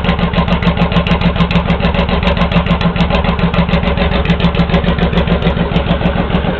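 Honda VTX1800 V-twin idling steadily through 3-inch Hard Krome straight pipes, with a loping beat. The pair valve is blocked off, which the owner credits for the more loping idle.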